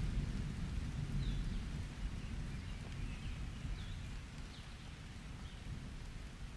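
Rain falling with a low rumble of thunder that fades away. Short bird chirps come and go over it.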